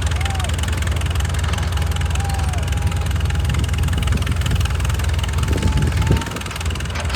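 Excavator's diesel engine running with a steady low rumble, dipping briefly in level about six seconds in.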